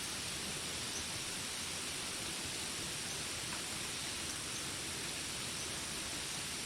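Steady rain falling, an even hiss with no let-up. A few faint, brief high chirps sound now and then over it.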